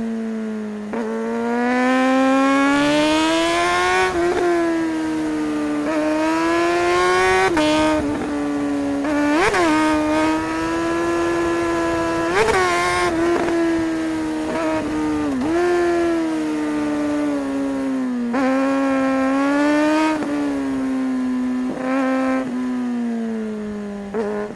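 Suzuki GSR 600 inline-four motorcycle engine under way, its pitch climbing and falling with the throttle. Every few seconds the note jumps sharply up and back down, the quick throttle blips and gear changes of the rider.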